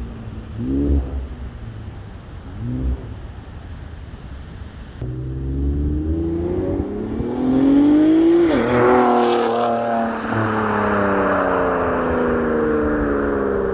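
Infiniti Q50 Red Sport 400's twin-turbo 3.0 V6 (VR30) through catless downpipes and a Motordyne catback exhaust: two quick blips, then a pull with the engine note rising for a few seconds. About two-thirds of the way in the pitch drops suddenly with a burst of hiss, and the engine note then eases slowly downward.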